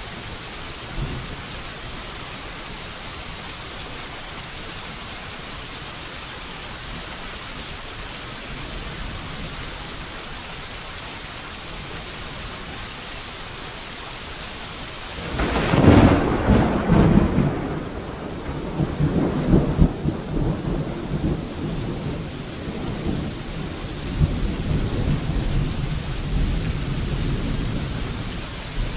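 Steady rain falling, then about halfway through a sudden loud thunderclap breaks in and rolls on as low rumbling thunder that swells and fades in waves.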